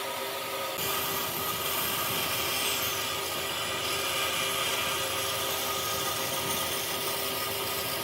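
Power tool running steadily on wood, its motor noise growing louder about a second in and holding on without a break.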